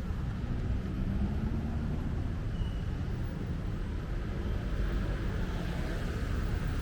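Steady city road traffic noise: the continuous low hum of cars and other vehicles passing on a busy street, with no single event standing out.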